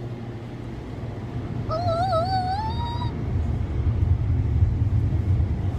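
Low, steady rumble of car wash machinery heard from inside the car, growing louder as the wash moves in. About two seconds in, a child gives one wavering, rising "ooh" for just over a second.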